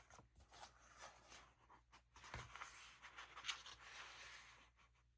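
Faint rustling and rubbing of paper being handled and pressed down on a work surface, with a soft knock about two and a half seconds in.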